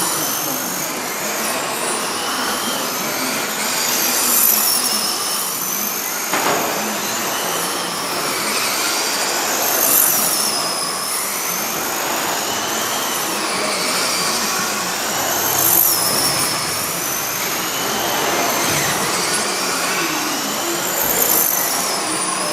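Several radio-controlled stock trucks racing, their motors making a high whine that rises and falls in pitch as they speed up and slow down. The pack swells louder about every five to six seconds as the trucks come past on each lap.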